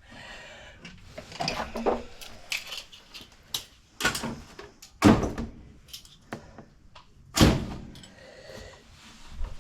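Irregular knocks and clunks of hands and tools working on the water heater's fittings, several light ones and two heavier clunks about five and seven and a half seconds in.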